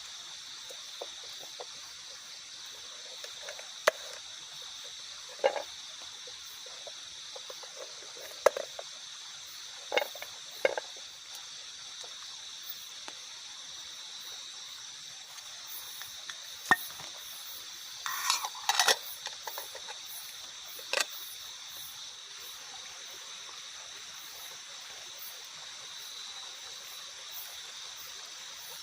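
Steady high-pitched chorus of night insects, with scattered sharp clinks and knocks, a quick cluster of them a little past the middle.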